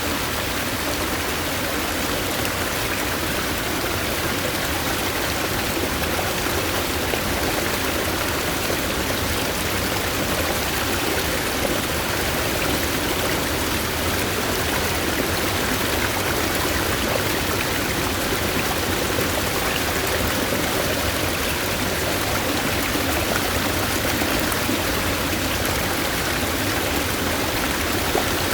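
Stream of clear water flowing over rocks: a steady, continuous rush and babble that does not change.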